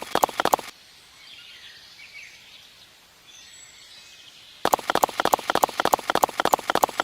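A rapid series of sharp clicks or taps, several a second, in two bouts with a quiet gap of about four seconds between them; faint bird chirps sound in the gap.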